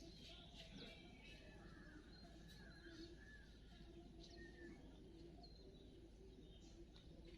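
Small birds chirping faintly: short, high chirps and brief down-slurred notes, scattered irregularly.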